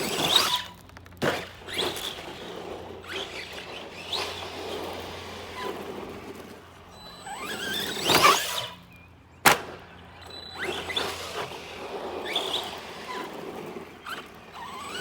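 Brushless electric motor of an Arrma Granite 3S RC monster truck revving in repeated bursts, each one a rising whine, with a sharp knock about nine and a half seconds in.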